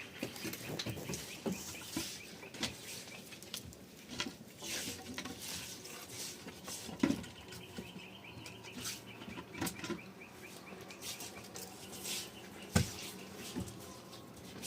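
Scattered knocks and clatter, two of them louder, about seven seconds in and near the end. Under them a faint, fast-repeating high chirp comes and goes.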